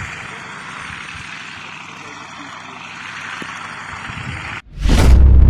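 A steady rushing noise that cuts off abruptly about four and a half seconds in, followed by a whoosh and a deep booming hit as music starts.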